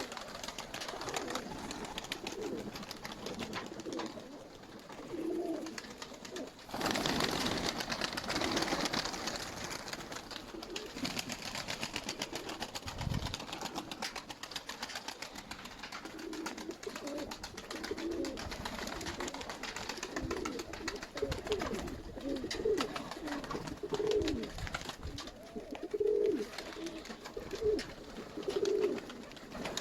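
Nikolaev pigeons cooing, with repeated short low calls that come more often in the second half. A burst of rustling noise comes about seven seconds in.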